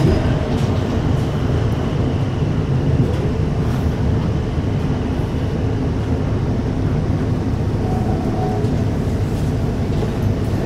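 Steady running noise inside the passenger saloon of a Class 455 electric multiple unit: an even low rumble of the train on the track, with a few faint clicks.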